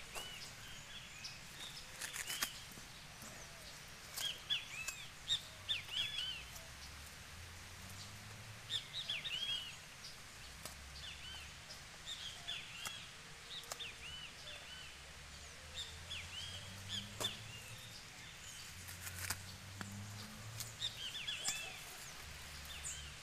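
Small birds chirping in short, repeated arching calls throughout, with a few sharp clicks in between.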